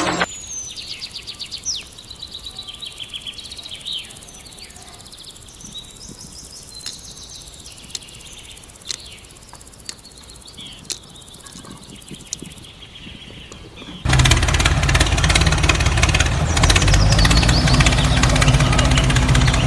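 Birds chirping over quiet outdoor background, with a few sharp clicks. About fourteen seconds in, a loud engine starts abruptly and runs steadily.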